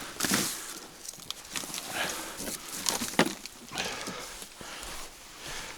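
Rummaging through junk on a wooden attic floor: irregular rustling and handling noises with a few sharp knocks, the loudest about three seconds in.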